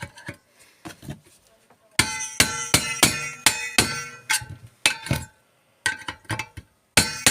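Hammer blows on a steel chisel wedged into a tack-welded sheet-steel joint, splitting the weld apart: sharp metallic strikes, each ringing briefly. A few lighter taps come first, then a fast run of louder blows from about two seconds in, a short pause, and more blows near the end.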